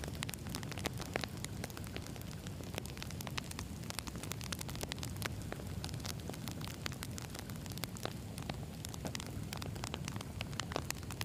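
Wood campfire burning: a steady low rumble of the flames with frequent, irregular crackles and pops of the burning logs.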